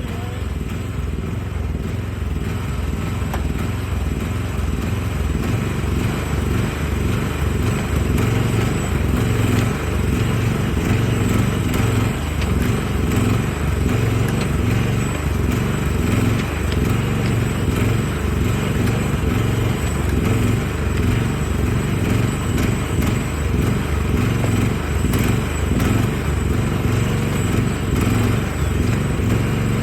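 Mini excavator's diesel engine running steadily under load while it digs out tree stumps and roots, getting a little louder after about eight seconds.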